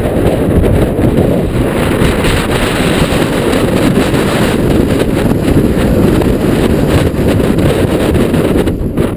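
Loud, steady wind buffeting the microphone in gusts of over 30 mph, a dense low rumble that dips briefly near the end.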